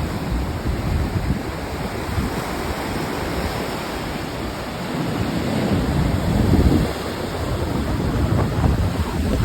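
Stormy Black Sea surf breaking on the shore, with strong gusty wind buffeting the microphone. The rush swells to its loudest about six seconds in.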